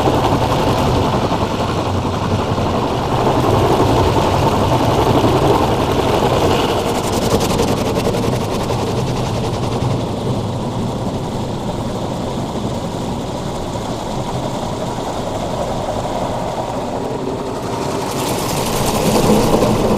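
Automatic car wash running over a car, its rotating brushes slapping rapidly against the bodywork with a steady wash of mechanical noise. A loud hiss comes in near the end.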